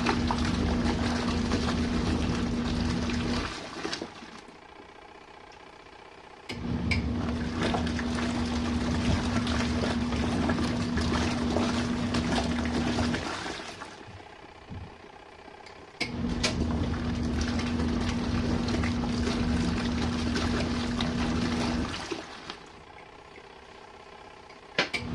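RV washing machine in its main wash: the wash motor hums and the water churns for about six seconds at a time, stopping for about three seconds between strokes, three strokes in all. A sharp click comes just before the end.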